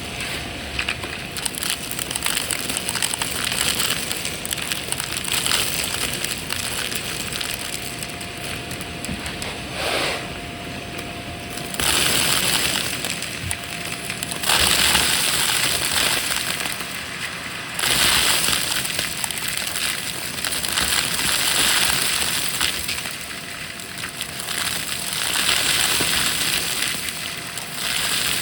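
Vacuum cleaner running and sucking up crunchy debris, a continuous crackling crunch over the motor's steady whine, growing louder in a few stretches.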